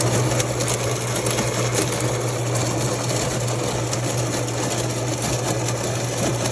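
Built-in bean grinder of a De'Longhi TrueBrew coffee maker grinding coffee beans, a loud, even mechanical whir.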